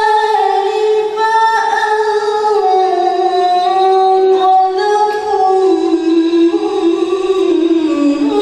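A woman's voice reciting the Qur'an in melodic tilawah style. It holds long, unbroken notes that step and glide slowly between pitches and sink lowest near the end.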